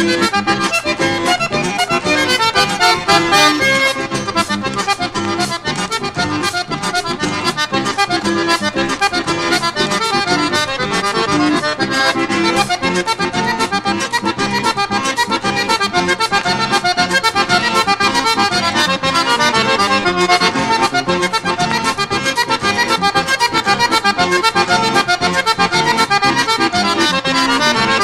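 Vanerão, a southern Brazilian gaúcho dance tune, led by accordion and played with a steady dance rhythm.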